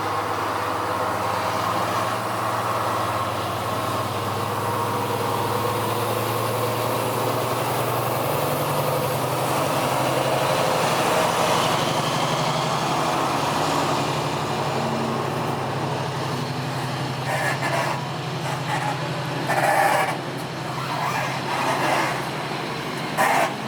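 A train passing at close range, its engine running with a steady low note over the rumble of the train, easing off after about fifteen seconds; a few short louder sounds follow near the end.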